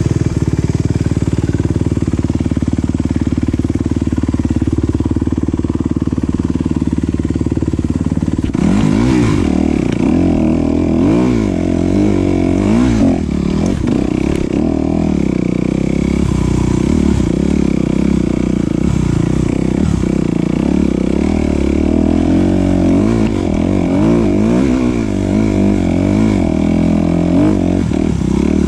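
Off-road enduro motorcycle engine running loud and close. It holds a fairly steady speed at first, then from about eight seconds in it revs up and down over and over as the bike is ridden.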